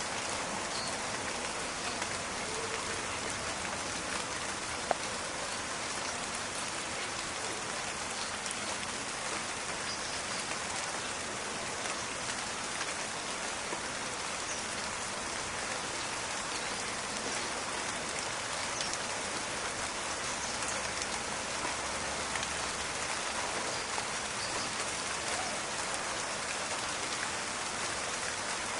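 Steady rain falling in a forest, a dense even hiss with scattered crackling drop ticks. One sharper tick stands out about five seconds in.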